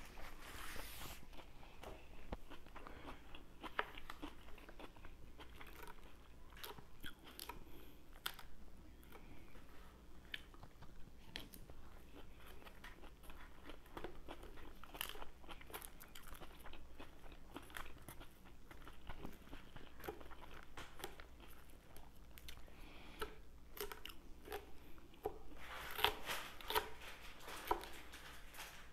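Close-miked chewing and crunching of crisp lettuce salad, a string of short, sharp crunches and mouth clicks. Near the end a denser run of louder crunches and clicks comes as a wooden utensil tosses the salad in its plastic bowl.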